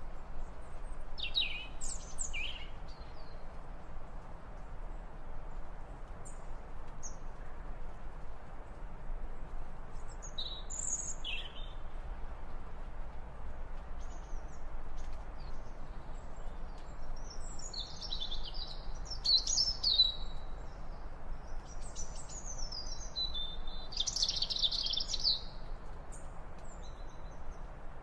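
Wild birds chirping and singing: scattered short high chirps, then busier warbling phrases about two-thirds of the way through and again near the end, over a steady low background hiss.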